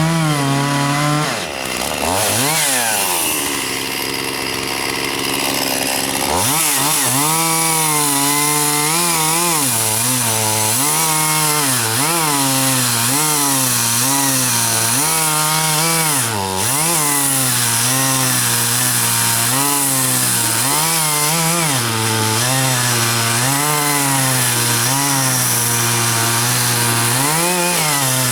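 Chainsaw running at high revs while cutting wood, its engine note dipping and recovering again and again as the chain bites. About a second and a half in it drops to a lower, steadier note for several seconds, then revs back up and carries on cutting.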